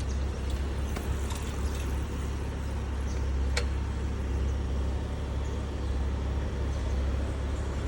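Steady low rumble of road traffic, with a single sharp click about three and a half seconds in.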